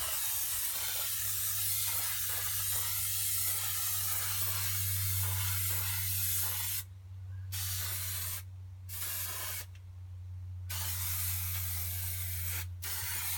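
Aerosol can of spray adhesive hissing in long bursts, with several brief pauses between sprays in the second half. The can's nozzle is worn from much use and sprays unevenly. A steady low hum runs underneath.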